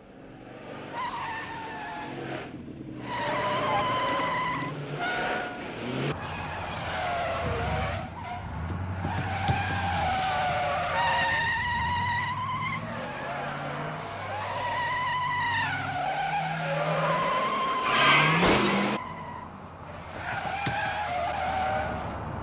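Car tyres squealing in long wavering skids under hard cornering, over engines revving in a chase, with the loudest burst of noise about eighteen seconds in.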